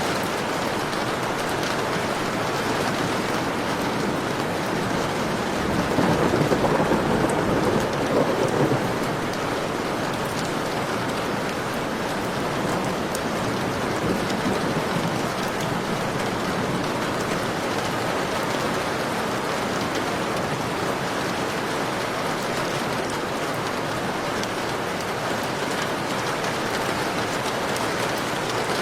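Heavy rain falling steadily in a thunderstorm, with a rumble of thunder swelling for a few seconds about six seconds in.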